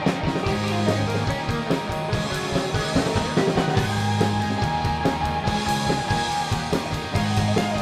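Indie rock band playing an instrumental passage: electric guitars with chorus-driven hooks over bass and a drum kit keeping a steady beat.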